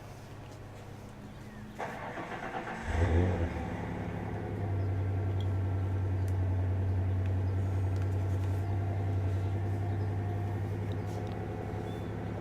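Old pickup truck engine cranking and catching about three seconds in with a brief rev, then settling into a steady idle.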